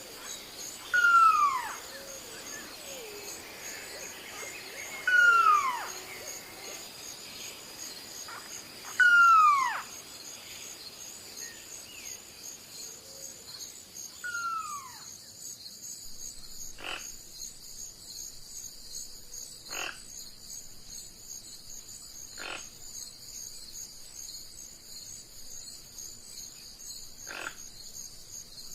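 A steady high-pitched insect chorus throughout, with four loud falling whistle-like animal calls about four seconds apart in the first half, then four short single clicks spaced a few seconds apart.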